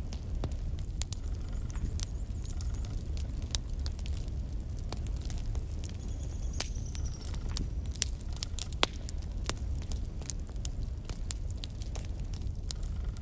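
Logs burning in a fireplace: irregular sharp crackles and pops over a steady low rumble of the flames, with a faint high whistle about six seconds in.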